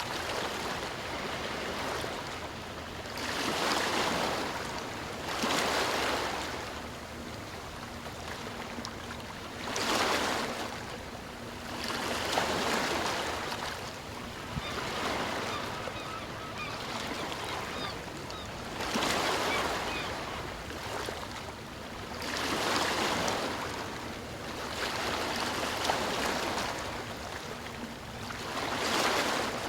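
Ocean surf: waves breaking and washing up the shore over a steady sea hiss, a louder surge every few seconds.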